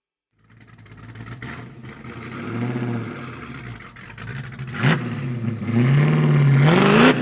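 A car engine running and revving, its pitch rising and falling. There is a quick rev blip about five seconds in, then a longer rising rev near the end that cuts off sharply.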